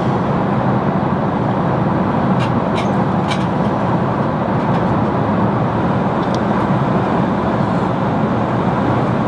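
Airliner cabin noise in flight: a loud, steady rushing hum, with a few faint light clicks about two to three seconds in and again later.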